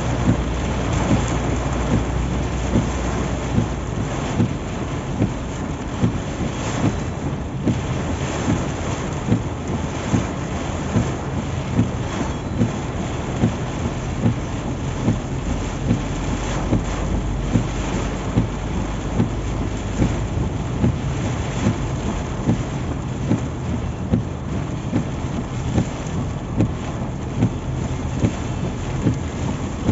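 Heavy rain pouring on a moving car, over a steady low road and engine rumble, with a short regular thump about once a second.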